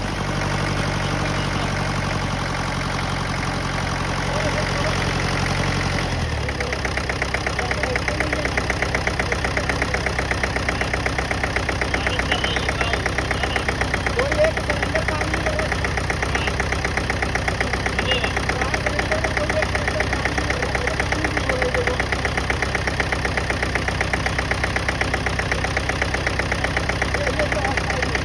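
Mahindra DI direct-injection diesel engine idling with an even, rapid diesel clatter. Its note changes about six seconds in, then holds steady.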